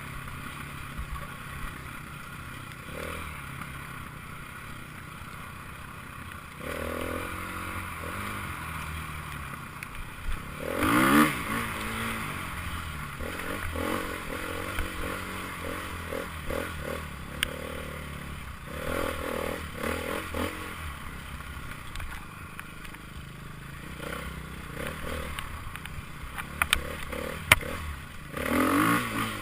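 Enduro motorcycles riding past one after another, engines revving and rising in pitch as they accelerate; the loudest pass comes about a third of the way in, with a few sharp clicks near the end.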